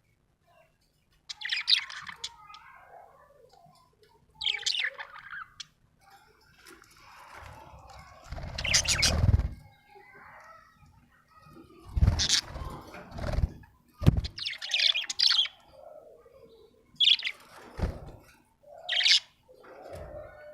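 Budgerigar chirping and warbling in short bursts, with a few louder rustling thumps mixed in between the chirps.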